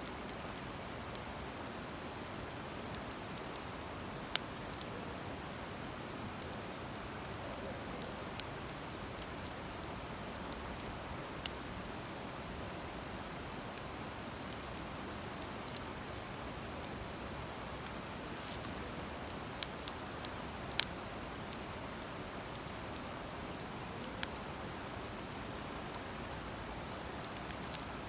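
Wood fire crackling: a steady hiss with scattered sharp pops, a few of them close together about two-thirds of the way through.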